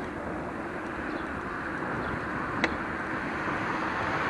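Steady road traffic noise heard from a bicycle on a town road, growing slightly louder near the end, with one sharp click about two and a half seconds in.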